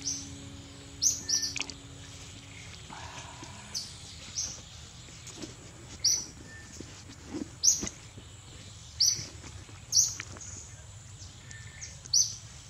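A bird chirping: about ten short, high calls at irregular intervals of roughly one to two seconds, over a steady outdoor background hiss.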